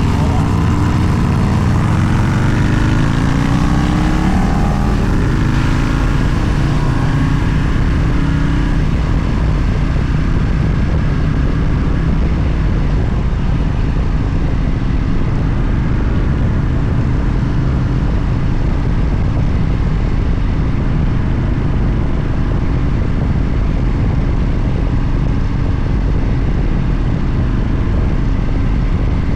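Motorcycle engine running on the road with steady rushing noise. The engine pitch climbs over the first few seconds as it accelerates, then holds steady at cruising speed.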